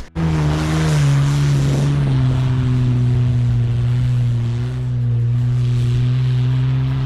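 Vehicle engine running steadily under load, starting abruptly with its note dropping slightly over the first couple of seconds and then holding level.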